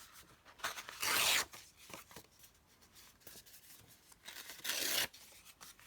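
Two short bursts of paper noise, about half a second each, one about a second in and one near the end, with light rustling between: sheets of decorative craft paper being handled.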